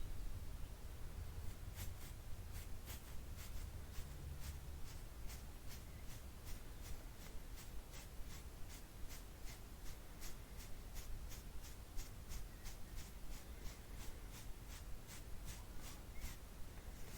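Soft, quick brush strokes swept over and over, about three a second, starting about two seconds in.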